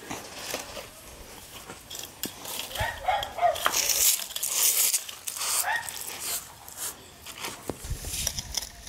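A dog barking a few short times, with a loud scraping rustle between the barks.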